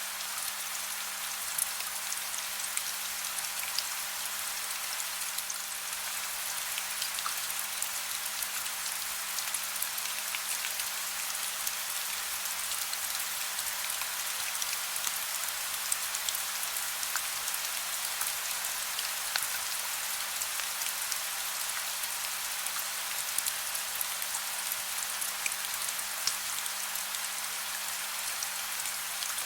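Soft steady rain, an even hiss with scattered individual drops ticking through it.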